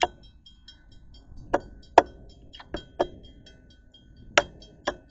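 Sharp metallic clicks at uneven intervals, about seven of them, some in close pairs, over a faint steady ringing tone.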